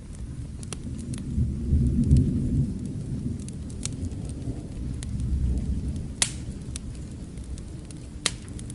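Distant thunder rumbling low, swelling about two seconds in and again midway, over a steady hiss of rain, with the crackle of a fireplace fire: scattered small pops, and two sharper pops in the second half.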